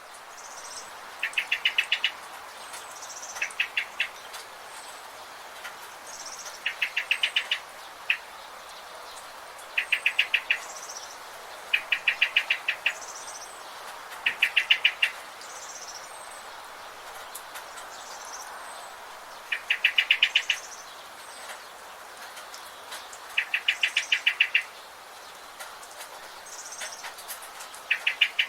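Forest birds singing: one bird repeats a quick trill of about eight to ten rapid notes every two to three seconds, with thin, high, short chirps from another bird in between, over a steady background hiss.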